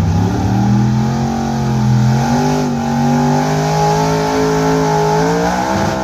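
Gasoline V8 of a street-class Ford pickup pulling a weight-transfer sled under full throttle, its revs climbing in steps and then falling away near the end; it is a run the announcer says did not sound good.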